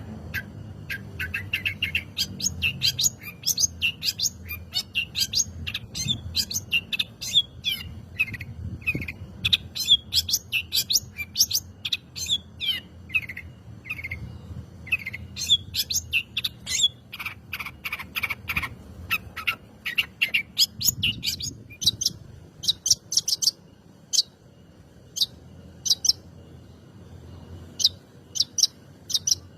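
Long-tailed shrike singing a fast, varied song of short chirps and trills, thinning out to fewer notes for a few seconds near the end.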